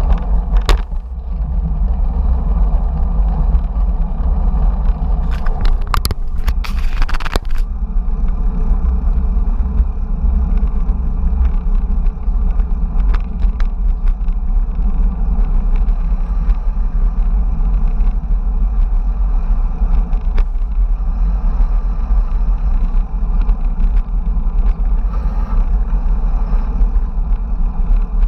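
Wind rumble on the microphone of a camera riding along on a bicycle, with the bike rattling briefly about six to seven seconds in.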